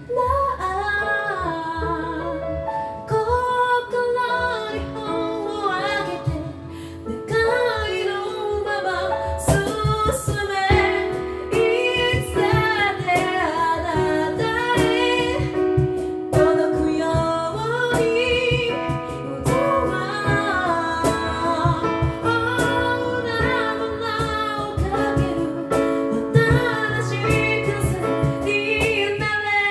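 Amateur a cappella group singing: a female lead melody over sustained backing harmonies and a sung bass line, with vocal percussion keeping a steady beat.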